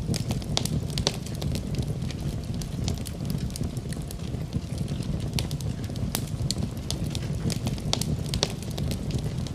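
Wood fire burning in a fireplace: a steady low rumble of the flames with irregular sharp crackles and pops several times a second.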